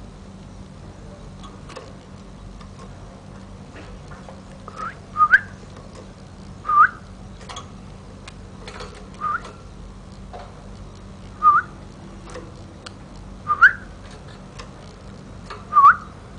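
Caged pet bird giving short, loud, rising whistled calls, about seven of them a second or two apart, with faint scattered ticks and taps between them.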